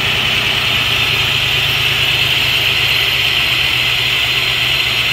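1990 Chevrolet Beretta engine idling roughly, with a steady hiss over the low running note. The rough idle comes from a vacuum leak, which the owner traced to a bad intake manifold gasket.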